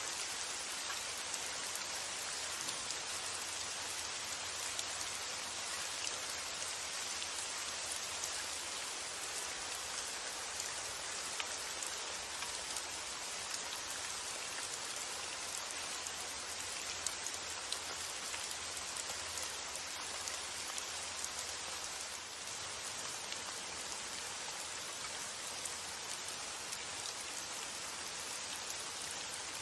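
Steady rain falling, an even hiss with scattered drop ticks, over a faint low rumble of wind.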